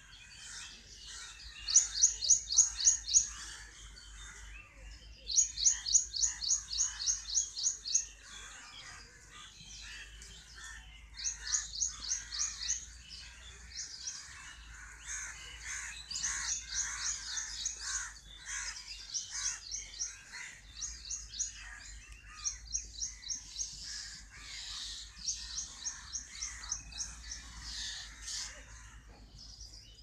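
Birds singing in a bamboo grove. One bird repeats a rapid run of high, evenly spaced notes, about six or seven a second, in bouts of one to three seconds, about seven times. Other birds chatter more softly throughout.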